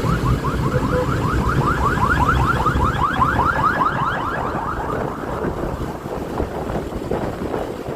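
Electronic vehicle alarm sounding a fast run of rising chirps, about five a second, that fades away about five seconds in, over traffic rumble and wind on the microphone.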